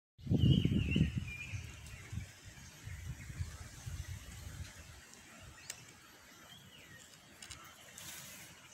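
A bird calling, with short warbling chirps near the start and again about two-thirds through. Under it is a low rumble on the microphone, loudest in the first second and dying away by about halfway.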